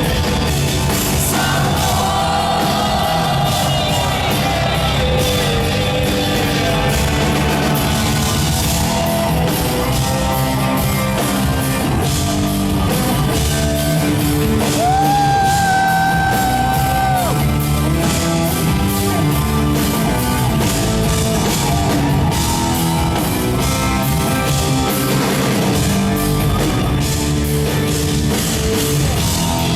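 Rock band playing live with singing, loud and steady throughout; a single high held note stands out for about two seconds around the middle.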